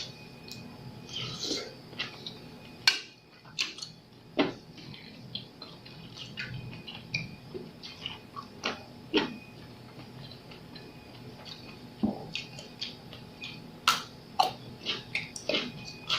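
Close-miked eating sounds of seafood papaya salad: chewing and mouth noises with scattered sharp clicks and taps, the loudest near 3, 4.5, 9 and 14 seconds in.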